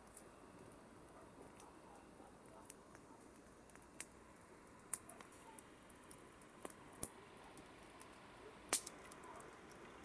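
Campfire crackling: irregular, sharp pops and snaps over a faint steady hiss, the loudest pop near the end.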